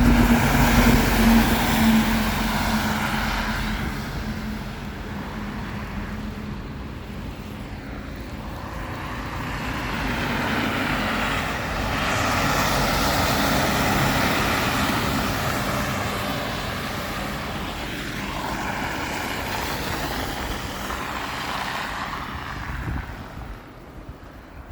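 A heavy truck's engine running as it passes, its hum fading over the first few seconds, then more vehicles going by on the snowy road, their tyre noise swelling and fading twice before dying away near the end.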